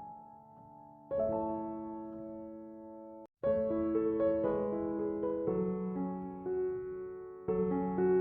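Background piano music: slow sustained chords, broken off briefly about three seconds in, then fuller and louder.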